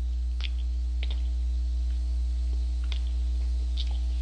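Steady low electrical hum, with a few faint, scattered mouth clicks from chewing a bite of hamburger.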